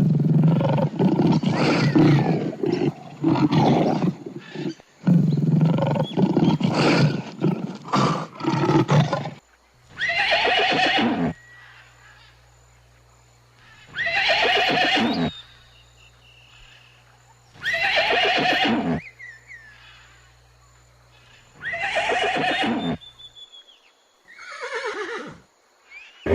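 Zebra calling: about nine seconds of rapid, pulsing braying calls, then five separate whinnying calls a few seconds apart, each falling in pitch.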